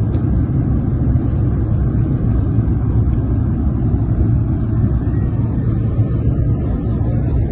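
Steady low rumble of an airliner cabin in flight: engine and airflow noise from the Azerbaijan Airlines Embraer 190.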